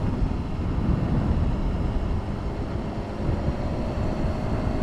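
Motorcycle engine running under way, mixed with dense wind and road noise, its pitch rising gently in the second half.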